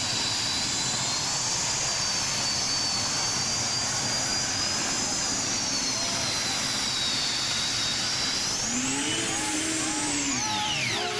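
Pulling tractor's engine running hard down the track, a loud steady roar with a high whine that wavers, climbs about nine seconds in, then sweeps sharply down near the end.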